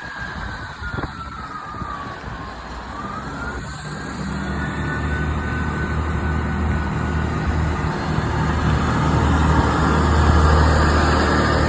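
Class 158 diesel multiple unit pulling away under power, its diesel engine note building steadily louder. Early on a whine falls and then rises in pitch.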